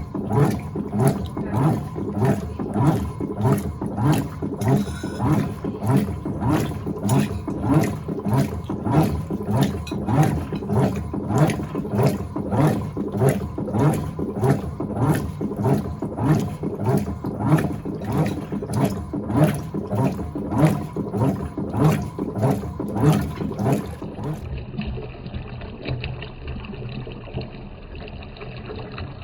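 Electrolux LTA15 top-loading washing machine agitating during the rinse, a steady rhythm of sloshing strokes about two to three a second. The agitation stops a few seconds before the end, leaving a quieter, steady running-water sound.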